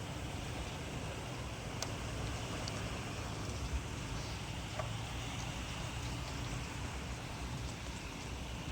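Heavy rain pouring steadily, an even hiss with a low rumble beneath it and a few faint ticks of drops.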